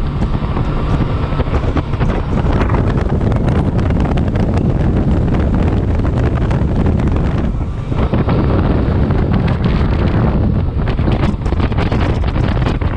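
Heavy wind buffeting the microphone on a boat under way, a steady loud rumble that eases briefly a little past halfway.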